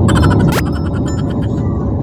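Airliner cabin noise in flight: a steady low rumble. In the first second and a half there is a quick run of sharp clicks, with a fast upward-sweeping tone about half a second in.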